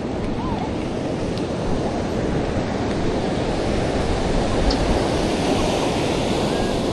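Ocean surf breaking and washing ashore, a steady rushing noise that grows slightly louder over the few seconds.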